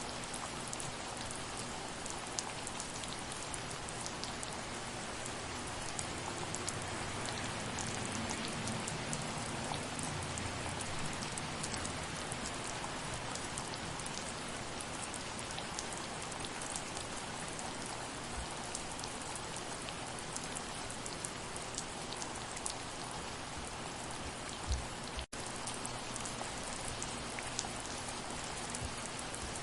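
Steady gentle rain, a dense even hiss with many individual drops ticking through it. About three-quarters of the way in there is a small low knock, and then the sound cuts out for an instant.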